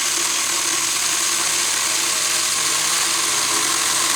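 Saker mini electric chainsaw with a 4-inch bar running steadily while it saws through a large log, its small electric motor and chain working under load.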